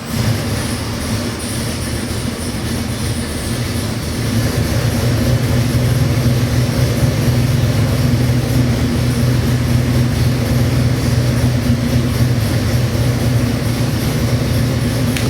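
Ford 347 cubic-inch stroker small-block V8 starting up and running at a steady idle, a little louder from about four seconds in.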